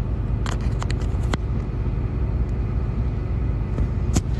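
Truck engine idling steadily, heard from inside the cab as a low, even rumble, with a few light clicks about a second in.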